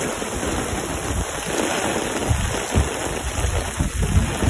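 Steady rain falling, with wind gusts buffeting the microphone in uneven low rumbles that grow stronger in the second half.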